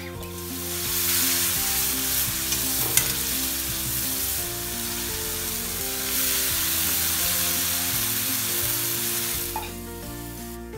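Masala sizzling in hot oil in a pan while a slotted steel spatula stirs and scrapes it, sautéed until its raw smell is cooked off, with one sharp clink about three seconds in. The sizzle swells again about six seconds in as boiled kohlrabi slices go into the pan, and dies away near the end, leaving soft background music.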